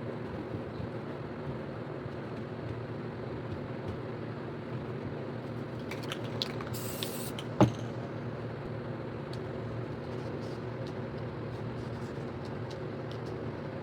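A short hiss from an aerosol spray-paint can, about seven seconds in and lasting under a second, ending in one sharp knock. Under it runs a steady low mechanical hum, with faint scattered ticks.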